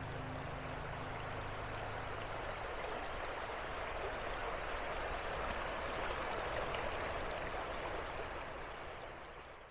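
Steady rushing noise of running water, with the last held tones of ambient music dying away in the first few seconds; the rushing fades out near the end.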